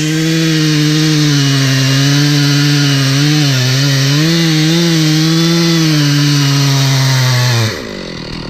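Two-stroke chainsaw cutting into wood at full throttle, its pitch dipping and wavering a little as the chain loads up in the cut. Near the end the throttle is released and the engine falls back to idle.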